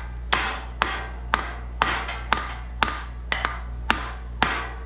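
Repeated hammer taps on an ear of a Briggs & Stratton engine's crankcase cover to break the case apart, about two sharp strikes a second.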